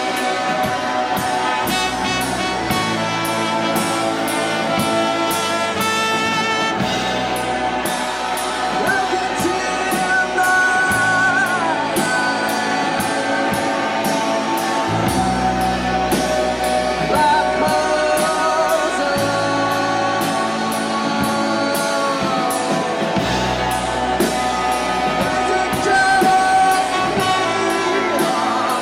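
Live rock band playing with a steady drum-kit beat, a moving bass line and guitar, and a gliding melodic lead line on top.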